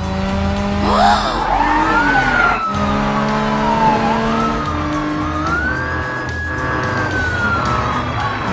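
Cartoon car sound effects over background music: a whining engine-like tone that glides up and down in pitch, with a quick rise and fall about a second in, then long slow swoops.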